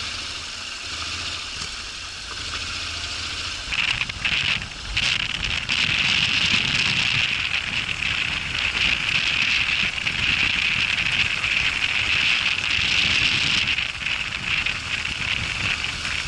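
Honda NC750X parallel-twin motorcycle engine running while the bike rides over loose dirt, under a loud, steady gritty hiss of tyre and surface noise. The hiss builds about four to five seconds in and eases off near the end.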